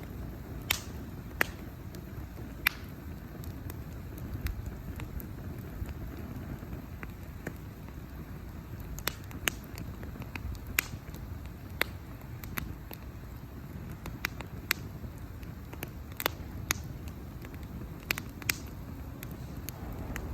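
Wood bonfire crackling: irregular sharp pops and snaps over a low, steady rumble.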